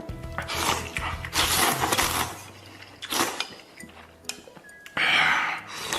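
A person slurping noodles in four noisy pulls: one about a second in, a longer one just after, a short one near the middle and one near the end.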